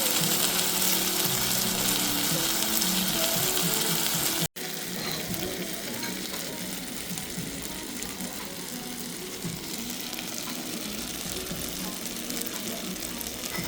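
A steady hiss, strongest in the highs, with faint steady tones beneath it. It breaks off about four and a half seconds in and resumes somewhat quieter.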